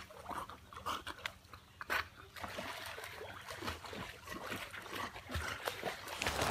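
Dogs wading and swimming in a shallow river: irregular splashing and trickling water, with a few short dog whines.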